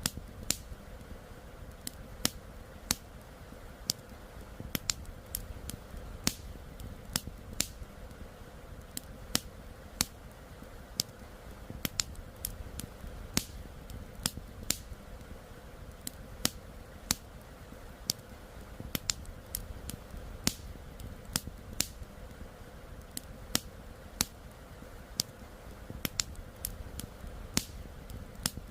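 Wood campfire crackling: sharp, irregular pops and snaps, a couple a second, over a low steady rush of flowing river water.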